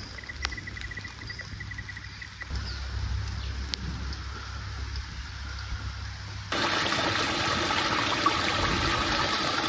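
Heavy rain falling, a loud steady hiss that starts abruptly about two-thirds of the way in. Before it, a quieter low rumble with a brief run of rapid high chirps.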